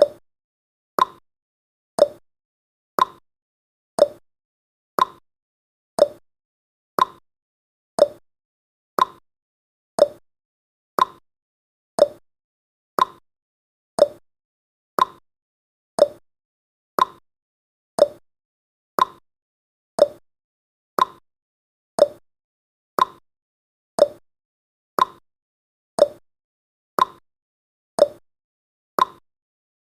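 Countdown timer's ticking sound effect: one short, sharp tick every second, like a clock, with silence between ticks.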